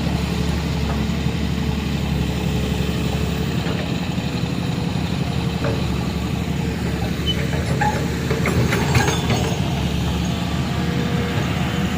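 Truck engine running steadily at low revs, with a few short clicks and knocks about nine seconds in.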